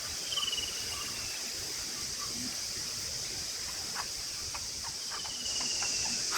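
Steady high-pitched chorus of insects, with two thin falling whistles about five seconds apart and a few faint clicks.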